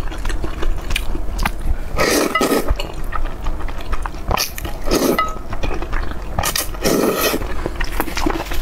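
Close-miked eating sounds of braised pork belly: wet chewing and biting with many small clicks, and louder mouthfuls about two, five and seven seconds in.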